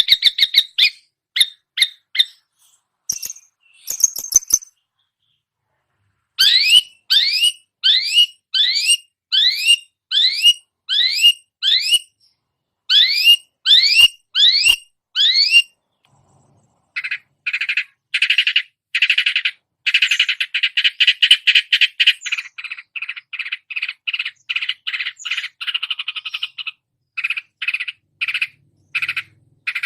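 Long-tailed shrike (cendet) singing, a mimic copying other songbirds. It opens with a few short sharp notes, then a string of rising whistled calls at about two a second. After a short pause about halfway through comes a long, fast chattering run of rapid notes.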